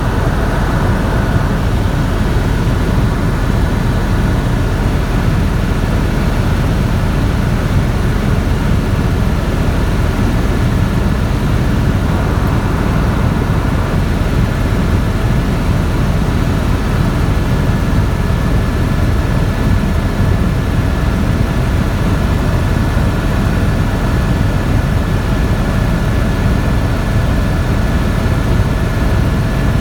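Helicopter in flight: a steady, loud drone of engine and rotor with a constant high whine on top.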